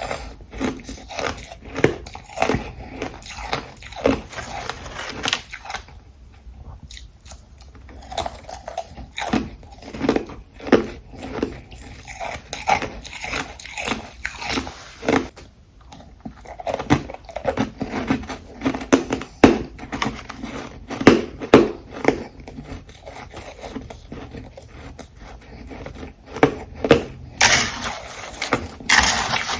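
Ice being bitten and chewed close to the microphone: a run of sharp, irregular crunches in bursts, with a longer, louder crunching rush near the end.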